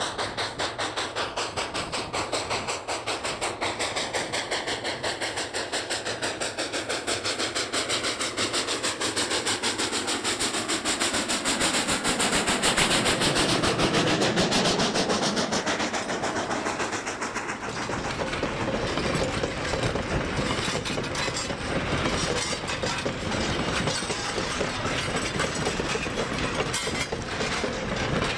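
Steam locomotive No. 93 passing with an ore train. A rapid, even exhaust beat grows louder to its closest point about halfway through. After that the rolling cars follow with a clickety-clack of wheels over the rails.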